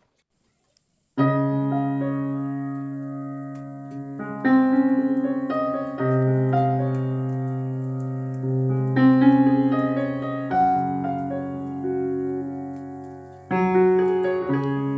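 Background piano music: slow, sustained chords that change every couple of seconds, starting about a second in after a moment of silence.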